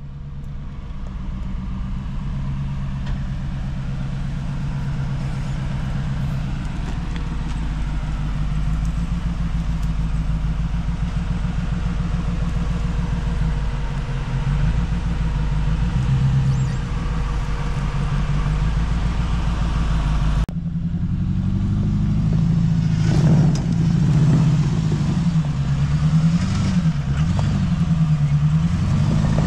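Jeep Cherokee's engine running steadily at a held speed. About twenty seconds in the sound changes abruptly, and the engine speed then rises and falls over and over.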